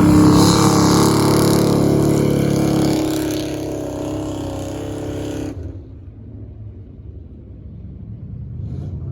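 Pickup truck engine revving hard under load, then dropping away suddenly about five and a half seconds in to a much quieter low rumble.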